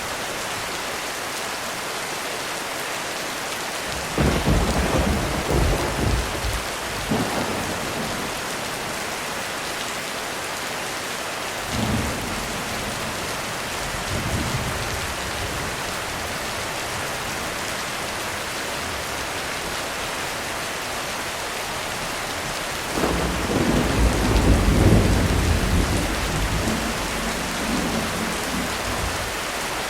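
Heavy rain drumming steadily on a roof through a thunderstorm, with rolls of thunder rumbling low: one about four seconds in lasting several seconds, two short faint ones in the middle, and the loudest, longest roll a little past two-thirds of the way through.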